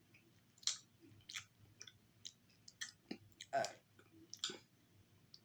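A person chewing a mouthful of soft snack cake, with irregular wet mouth clicks and smacks.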